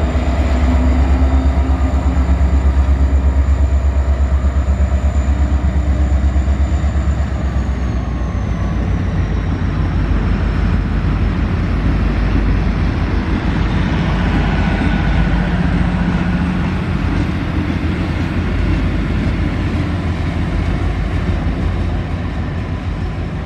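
Alaska Railroad Hurricane Turn train passing close by. A deep pulsing diesel engine throb comes first, with a high whine that drops in pitch about eight seconds in as it goes by. A steady rumble of wheels on rails follows.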